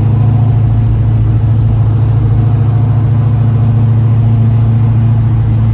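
1970 Chevrolet Chevelle engine and road noise, heard from inside the cabin while driving, a loud, steady drone that holds one pitch, as at a constant cruising speed.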